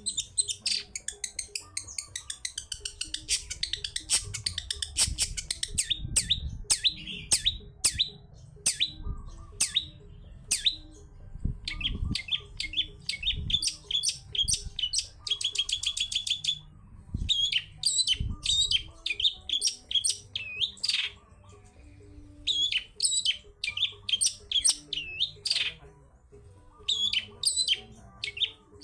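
Long-tailed shrike (cendet) singing a fast, varied chattering song of rapid chirps, whistles and rattling trills, broken by a couple of short pauses. A few low thuds sound underneath.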